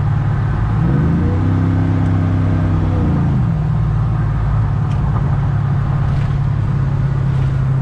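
Pickup truck's engine running under way with road rumble; about a second in the engine note rises, holds for about two seconds, then drops back.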